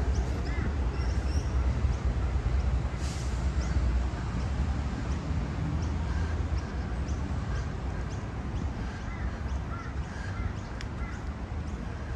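Birds giving short, repeated calls over a steady low outdoor rumble.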